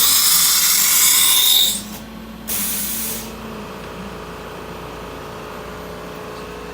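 Compressed air hissing loudly from the automatic tool changer of a 2008 Anderson CNC router during a tool change. It cuts off sharply a little under two seconds in, and a second, shorter blast follows about half a second later. After that a quieter steady hum with a faint steady tone remains as the spindle runs.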